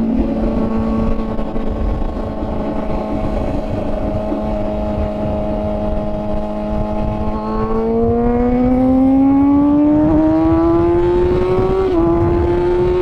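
Kawasaki ZX-6R inline-four engine pulling at steady revs under way, with wind rush over the microphone. About seven seconds in, the revs climb smoothly for several seconds as the bike accelerates, with a brief dip near the end.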